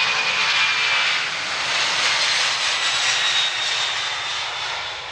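Jet engines of a Boeing 767-300ER at takeoff thrust, a loud roar that gradually fades as the airliner moves away.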